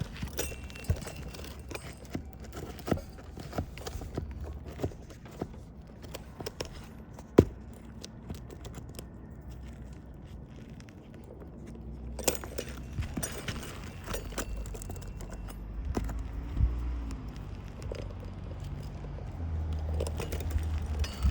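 Clinks, taps and scrapes of a metal hand tool working under asphalt roof shingles to release their nails, in scattered short strokes, with one sharp knock about seven seconds in.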